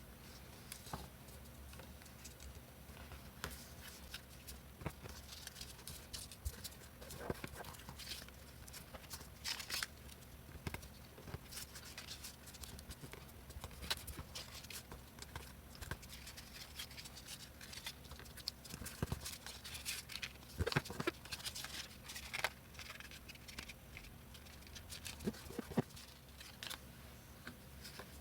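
Scattered small clicks, taps and short rustles of construction paper being handled and worked with craft tools, over a faint steady hum.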